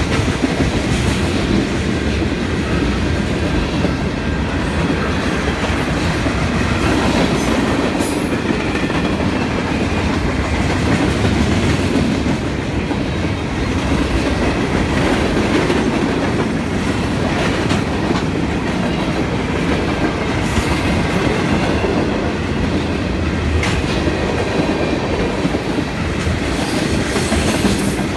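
The cars of a mixed freight train rolling steadily past: a continuous rumble of steel wheels on rail, with a clickety-clack over the joints and a few sharper clicks scattered through it.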